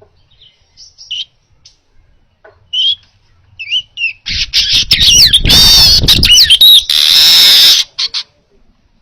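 Manyar (weaver bird) singing: a few short, separate chirps, then about halfway in a loud, buzzy burst of rapid, wheezing notes that lasts about four seconds and stops abruptly.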